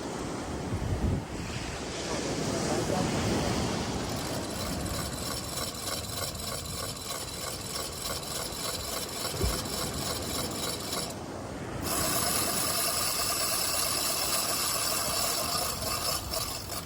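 Fishing reel's drag screaming as a hooked shark strips line off the spool: a steady rasping buzz that turns shriller about twelve seconds in.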